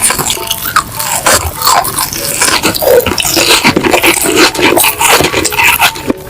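Close-miked eating sounds: wet mouth clicks, smacking and slurping in quick succession, with short squeaky glides.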